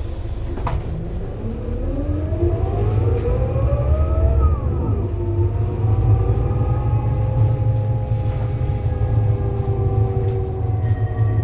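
Scania K230UB city bus accelerating: the diesel engine and ZF Ecomat automatic gearbox rise in pitch for about three seconds, drop sharply as the gearbox shifts up, then climb slowly again over a steady low rumble.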